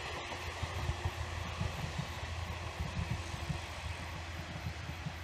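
Sangi Railway electric train running along the track, a steady low rumble that slowly fades as the train moves away.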